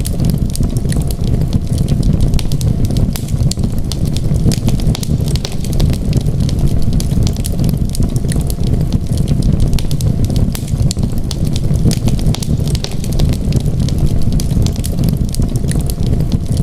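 Fireplace fire burning with a steady low roar and continual irregular crackles and pops.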